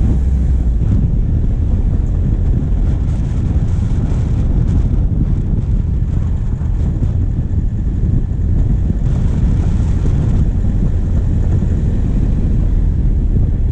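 Diesel engine of a vehicle driving on a forest track, a steady low rumble picked up close to the bonnet, with wind buffeting the microphone. A brief higher hiss comes in about nine seconds in.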